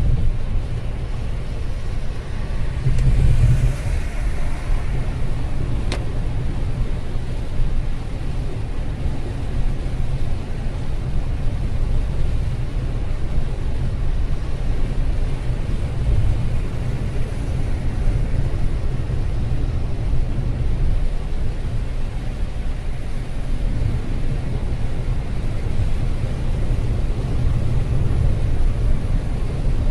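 Car driving in the rain: a steady low rumble of road and engine noise. A brief louder rush comes about three seconds in, and a single click about six seconds in.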